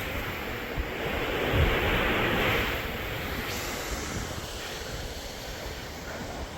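Steady rain falling, with wind rumbling on the microphone. It swells louder about a second in and eases off after about three seconds.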